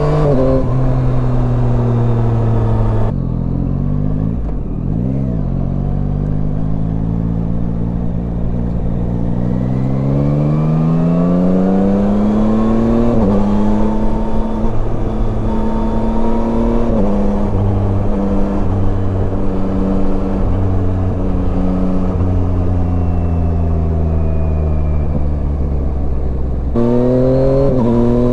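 Yamaha Tracer 9's three-cylinder engine on the move. It slows, then accelerates with a rising pitch, and the pitch drops twice at upshifts before holding steady and easing off. Wind and road noise run underneath.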